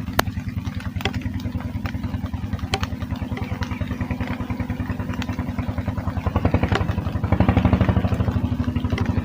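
A small engine running steadily with a rapid even putter, about ten beats a second, growing louder about seven seconds in. A few sharp clicks sound over it.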